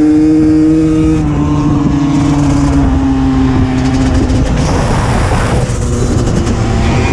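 Two-stroke dirt bike engine held at high revs. After about a second the revs slowly drop, and past the middle the engine note sinks into a rough rumble of wind and riding noise.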